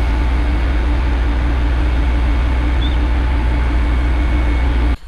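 Loud, steady engine drone with a deep hum, cutting off suddenly near the end.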